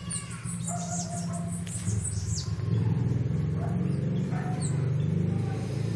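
Small birds chirping, a run of quick, high, downward-sliding chirps, over a steady low rumble.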